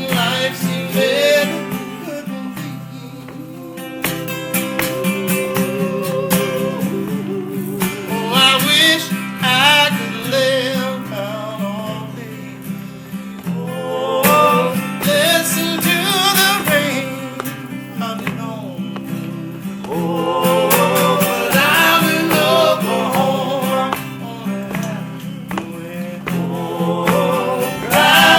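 Live band music: acoustic guitars playing over a steady bass, with a melody line that swells and fades every few seconds, in a passage between sung verses.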